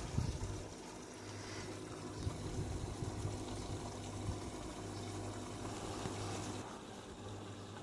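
Panasonic NA-147VB2 front-loading washing machine taking in water early in the wash: water rushing in with a steady low hum, which breaks off briefly near the end.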